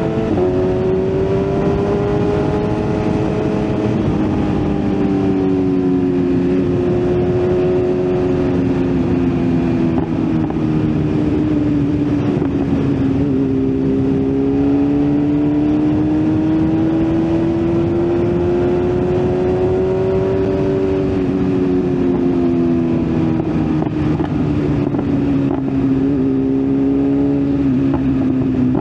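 BMW S1000RR's inline-four engine running at road speed, its pitch rising and falling slowly with the throttle and stepping suddenly a few times as gears change. Wind and road noise rush steadily beneath it.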